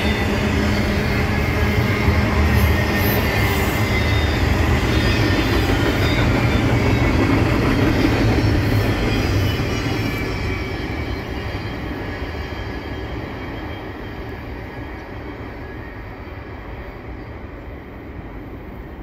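Double-stack intermodal freight train's container cars rumbling and rattling past on the rails. The last car goes by about halfway through, and the sound then fades steadily as the train recedes.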